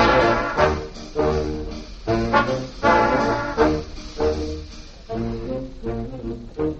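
Swing-era dance band playing, with the brass section and trombones to the fore in a run of punchy accented chords.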